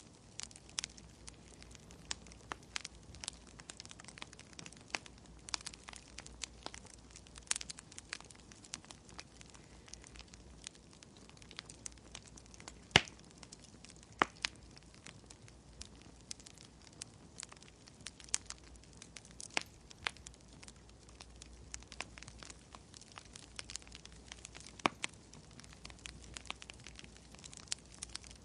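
Wood fire crackling, with irregular sharp pops and one louder pop about halfway through.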